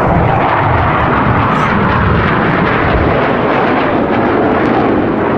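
Loud, steady jet noise from BAE Systems Hawk T.65A jet trainers' Adour turbofan engines as the aircraft fly over, with a deep rumble strongest in the first three seconds.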